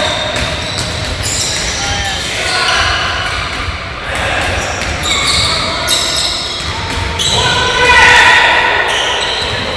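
Basketball bouncing on a gym floor during play, with players' voices and calls echoing in a large sports hall.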